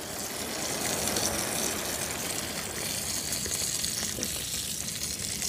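A large prawn frying in coconut oil in a shallow pan, with a steady sizzle.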